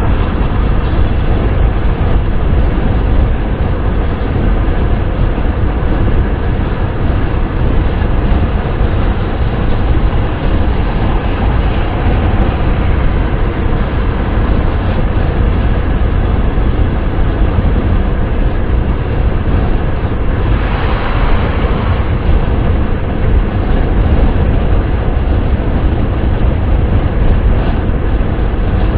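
Wind and road noise of a car driving at speed: a steady, deep rumbling rush. About two-thirds of the way through, a brief, brighter rush of noise swells and fades.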